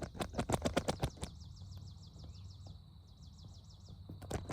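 Insects trilling steadily behind two runs of rapid crunching clicks, one in the first second and another near the end.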